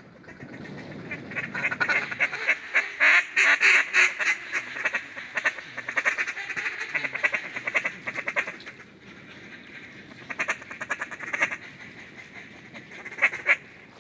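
Ducks quacking in a fast run of repeated calls. The calls are loud and dense for the first several seconds, then thin out, with one more short loud burst near the end.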